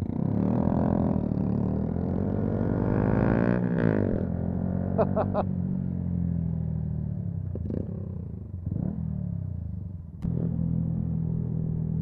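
Yamaha MT-125's single-cylinder 125 cc engine accelerating, its note rising for about four seconds, then dropping sharply at a gear change or roll-off. It settles into a steadier, lower run, with a brief dip and a sharp click just after ten seconds before it picks up again.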